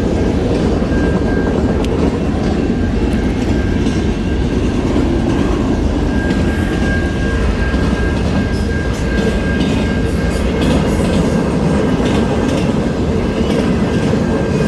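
Steady rumble of wind buffeting the camera microphone and tyres rolling while riding a bicycle. A faint thin high whine comes and goes.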